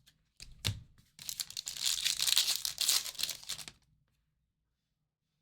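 A trading card pack's wrapper being torn open: a crinkly rip of about two and a half seconds, after a short knock.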